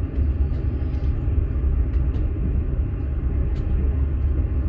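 Steady low rumble of a moving passenger train heard from inside a platzkart sleeper carriage, with a couple of faint clicks.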